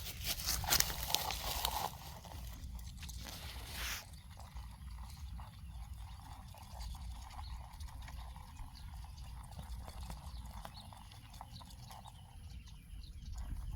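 Rustling and scattered light knocks and clicks, loudest and densest in the first two seconds with another burst near four seconds, over a steady low rumble.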